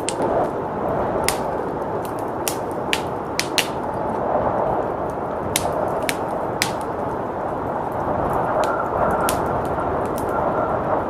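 Wood fire crackling, with sharp irregular pops, over a steady rushing blizzard wind.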